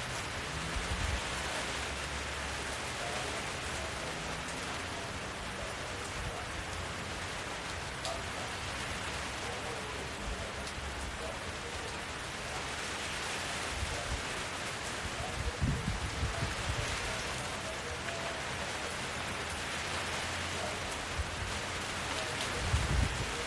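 Steady rain falling, an even hiss of many drops, with a couple of brief low rumbles about two-thirds of the way through and again near the end.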